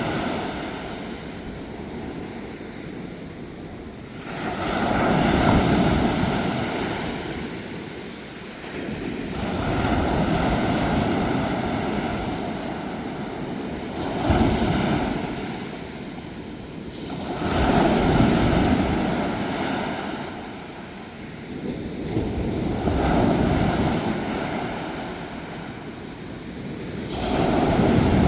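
Sea waves breaking and washing up on a shore, one after another about every four to five seconds, each swell rising to a rush and then fading.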